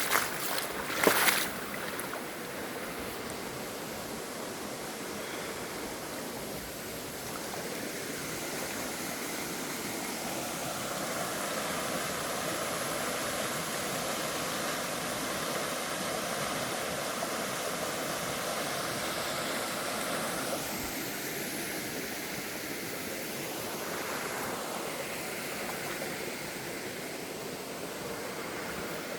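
Waterfall water rushing in a steady, even roar, with a couple of brief bumps about a second in.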